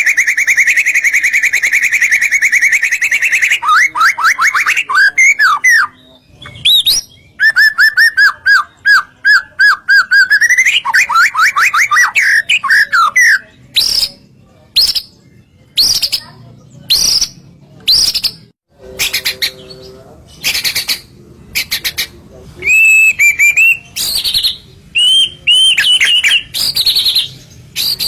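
White-rumped shama (murai batu) singing a loud, varied song. It opens with a fast, steady trill, then moves through runs of repeated sweeping whistles and short sharp notes, with brief pauses between phrases.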